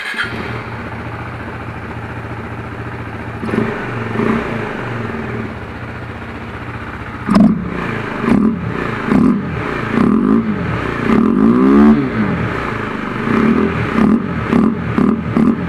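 KTM Duke 390's single-cylinder engine running with its air filter removed, so the intake is open. It idles steadily for a few seconds, then is revved again and again in quick throttle blips, each rising and falling in pitch, from about seven seconds in.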